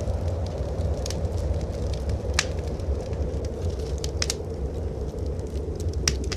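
Wood fire crackling in a fireplace, with a few sharp pops scattered through, over a steady low rumble.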